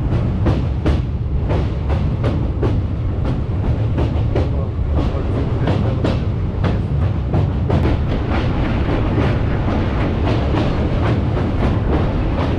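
Passenger train coach running over a bridge: a steady heavy rumble of wheels on the track, cut by sharp clickety-clack wheel strikes about two to three a second.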